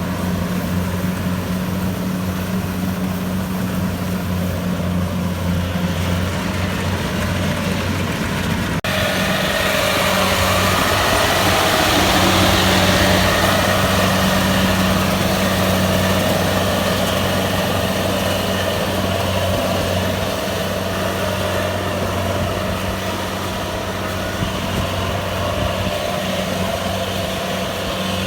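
Kubota DC-70 Plus combine harvester's diesel engine running steadily at a constant speed. About nine seconds in the sound changes abruptly and a louder rushing mechanical noise comes in over the engine, strongest a few seconds later, then easing off.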